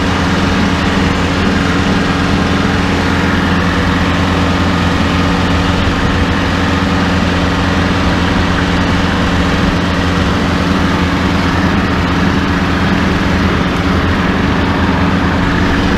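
Tractor engine running steadily under load while mowing, a constant drone with a mower whirring along with it.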